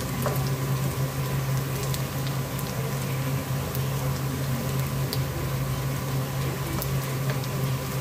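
Chicken skins sizzling and crackling as they fry in their own rendered fat in a wok over a high gas flame, with small pops scattered through, while a wooden spatula turns them. A steady low hum runs underneath.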